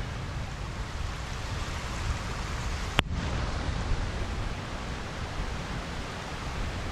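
Steady rain falling on a pond, an even hiss over a low rumble. A single sharp click sounds about three seconds in.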